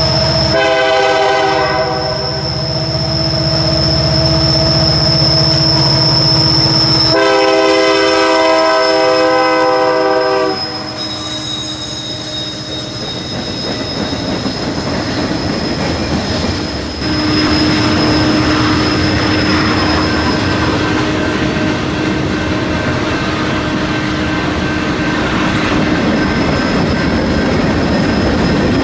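Passing train sounding a multi-note air horn twice, a short blast at the start and a longer one about seven seconds in, over steady rumble and a high, steady wheel squeal.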